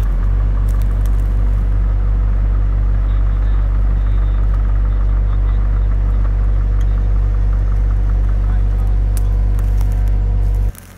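A vehicle engine running steadily with a deep, even rumble, cutting off abruptly near the end.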